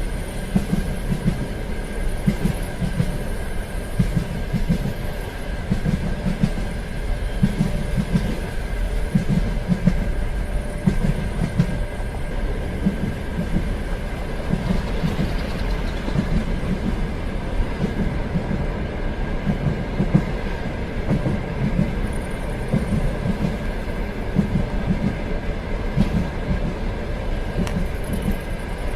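Train running steadily along the track: a continuous low rumble with uneven wheel-and-rail knocks and a faint steady tone.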